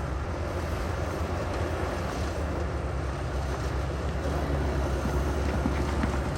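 Heavy earthmoving equipment's diesel engine running steadily, a low even hum with noise over it.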